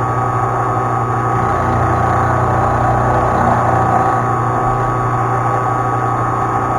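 Milling machine running steadily: a motor hum with a high whine above it, starting just before and stopping just after.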